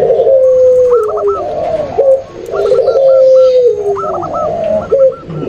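Several doves cooing over one another, a mixed lure recording of zebra dove, spotted dove and puter pelung (barbary dove) calls. Long, downward-stepping coos recur about every two seconds, with shorter, higher notes overlapping them.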